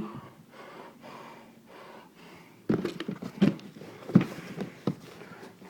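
A cardboard box being handled and pulled open, with a few short knocks and scrapes from about halfway in.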